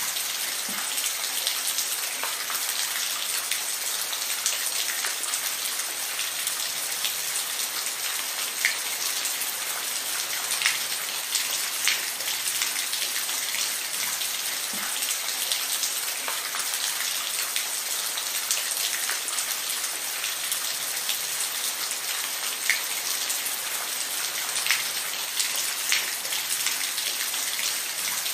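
Steady rainfall: an even hiss of rain with scattered louder drops ticking close by.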